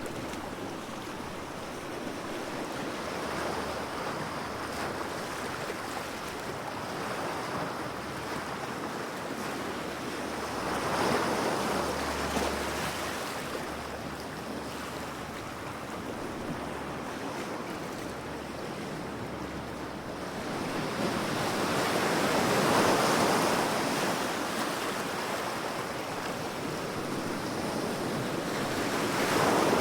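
Ocean waves breaking and washing onto a shore, swelling and fading in long surges every several seconds, with a steady rush of surf between them and some wind noise on the microphone.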